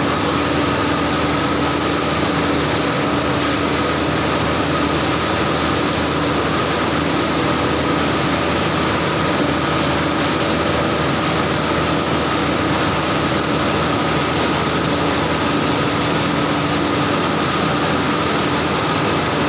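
A machine running steadily at a constant pitch, with a steady hum over a broad mechanical noise.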